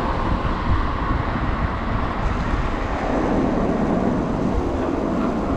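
Steady wind rush on a body-worn action camera's microphone with road and traffic noise while riding an electric bike in city traffic.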